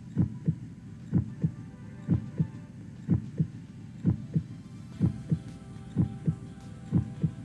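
Heartbeat sound effect: paired lub-dub thumps about once a second, over a faint steady hum. It stands for a nervous, pounding heart.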